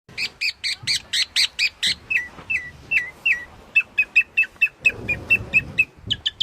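A songbird singing in repeated phrases: a quick run of about nine sharp notes, then five or so downslurred whistles, then a fast series of short notes at about four a second.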